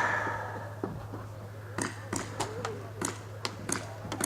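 Footsteps of a walking player, a run of sharp taps about three a second starting a couple of seconds in, after a brief noisy rush at the start. A low steady hum from the camera runs underneath.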